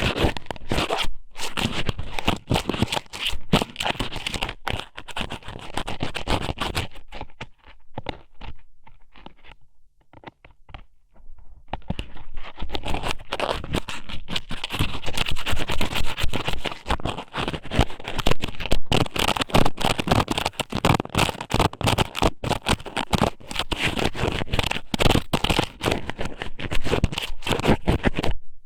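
Dried squid strips (ika sōmen) scraping and rustling inside the ear of an ear-shaped ASMR microphone, in dense scratchy strokes. It thins out to a few soft scratches about eight seconds in, then picks up again about four seconds later.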